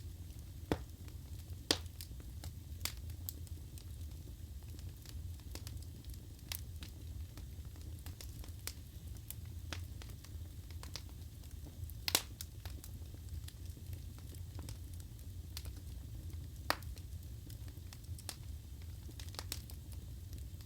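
Wood fire crackling in a fireplace: irregular sharp pops and snaps over a steady low rumble, the loudest pop about twelve seconds in.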